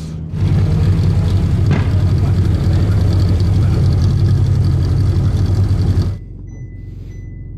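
Ferrari 488 Pista's 3.9-litre twin-turbo V8 running loud and steady at low revs as the car rolls slowly down the pit lane. About six seconds in it drops to a quieter steady hum, with a faint high beep repeating about twice a second.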